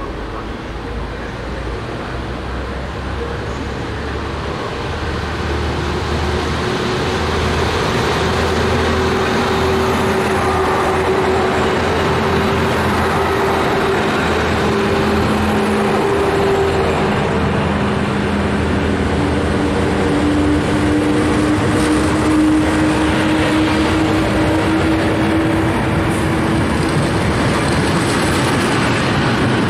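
Freight train hauled by an electric locomotive approaching and passing, growing louder over the first several seconds, with steady tones from the locomotive over the rumble. Near the end, loaded flat wagons roll past.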